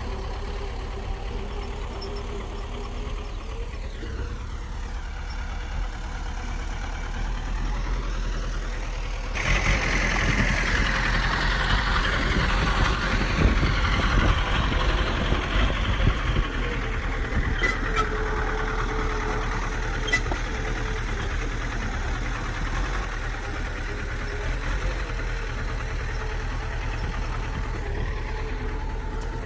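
Heavy diesel engine of a bulldozer running steadily. About a third of the way in, a harsh grating noise comes in suddenly and it grows louder for several seconds, with a couple of sharp clicks, before settling back to a steady run.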